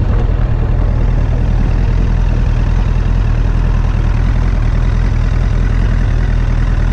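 Motorcycle engine running steadily at low revs, a loud, even low rumble.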